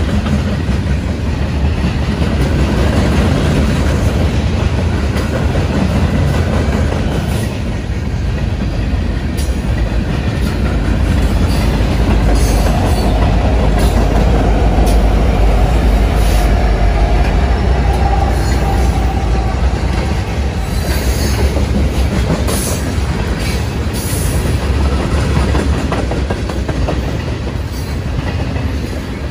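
Freight train passing close by: a continuous heavy rumble of cars rolling over the rails. About halfway through, the train's mid-train diesel locomotives go past and add a steady engine drone. Short high squeaks from the wheels follow later on.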